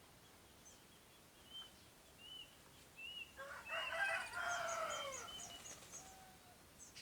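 Bird calls: faint short chirps, then one long, loud call of about two seconds a little past the middle.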